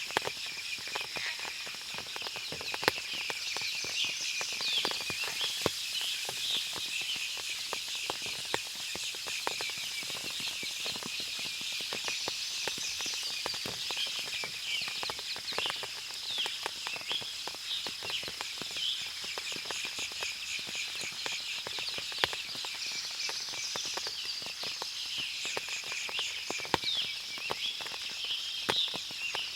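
Forest after rain: many small birds chirping and trilling over a steady high insect hum, with frequent sharp drips of water falling from the trees.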